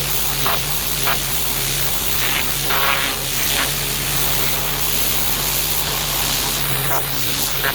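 Pressure washer running steadily, its water jet hissing against paving slabs over a low machine hum.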